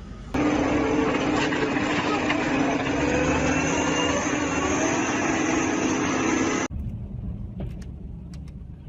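A vehicle engine running loudly and steadily with a constant hum, cutting off suddenly about two-thirds of the way through. After that comes quieter background noise with a few faint knocks.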